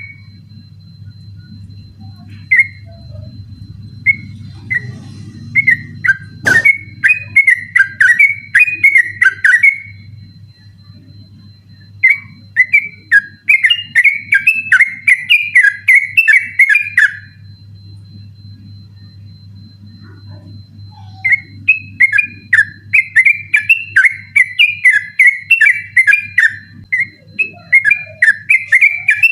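Yellow-vented bulbul singing long, rapid runs of whistled notes, the continuous 'ropel' style of song, in three bursts with short pauses between, over a steady low hum. A single sharp click about six seconds in.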